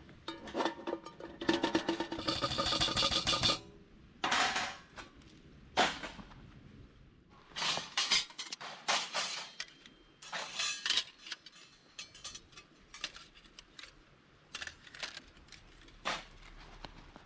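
A series of irregular clinks, knocks and rustles of small objects being handled, densest and loudest about two seconds in.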